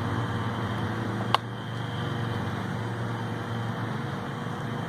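Steady low mechanical hum with a faint even background noise, broken once by a single short sharp click about a second in.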